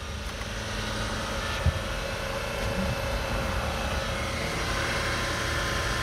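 A car engine idling steadily, with a single sharp click about a second and a half in.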